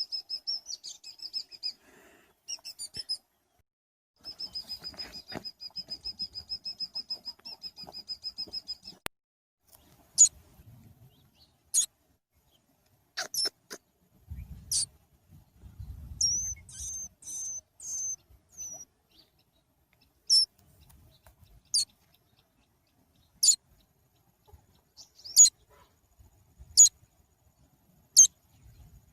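Small bird calling: fast runs of thin, high chirps at first, then single sharp, high calls every second or two. The calls come from a fallen nestling or its mother, which is calling in alarm nearby.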